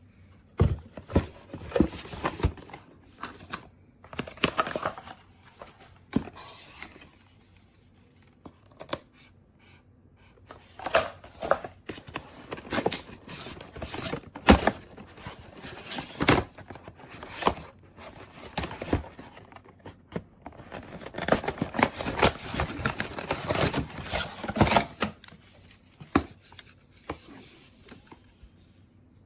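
Rustling and handling noises come in bursts, mixed with sharp clicks and knocks, with short pauses between them: things being picked up, set down and handled, like packaging or plastic parts.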